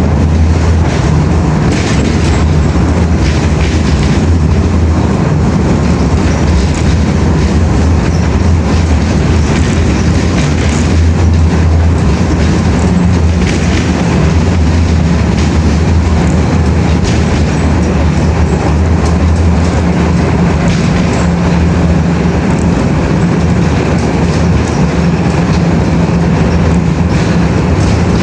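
A loud, steady mechanical rumble with a low drone and scattered faint clicks, as of a vehicle running.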